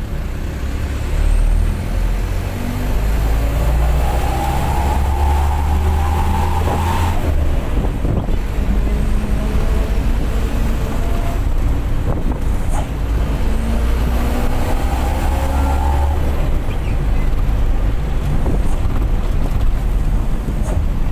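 Bus diesel engine with an aftermarket 'serigala' exhaust pulling under acceleration. Its pitch climbs for a few seconds, then drops at a gear change about seven seconds in. It climbs and falls again around fifteen seconds in, over a steady low rumble.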